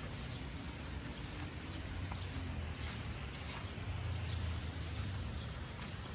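Outdoor nature ambience while walking: a steady low rumble under scattered short, high chirps and clicks, typical of birds or insects.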